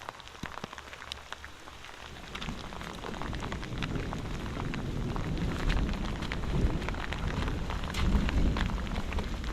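Steady rain with many close drops ticking. A low rumble of thunder builds from about two seconds in and grows louder toward the end.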